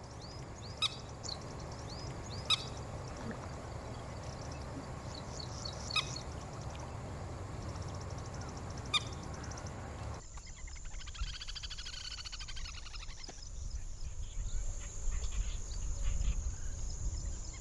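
Water birds calling: short repeated high chirps broken by a few sharp clicks, then about ten seconds in an abrupt change to dense, fast chattering calls over a low rumble.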